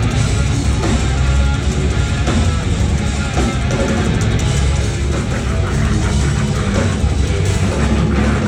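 Heavy metal band playing live at loud volume: distorted electric guitars over a drum kit and heavy bass.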